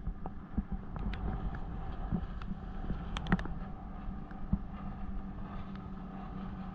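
Boat engine running with a steady low hum, while the first raindrops make scattered taps, one or two a second, at the start of a rain shower.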